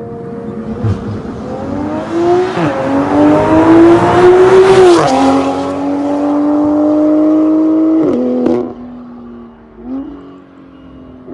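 Toyota GR Supra's B58 turbocharged straight-six, breathing through an MS-R valved catback exhaust with a straight-through downpipe, pulling hard. The pitch climbs and drops at two upshifts, holds steady, then falls away as the throttle is lifted, with a short rev blip near the end.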